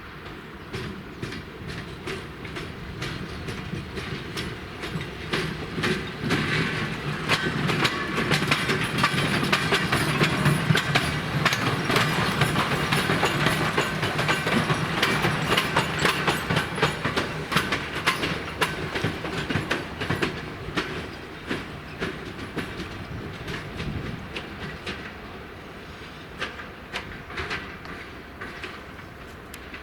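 A train passing on the rails, its wheels clicking and clattering over the rail joints, growing louder as it comes by and then fading as it moves away.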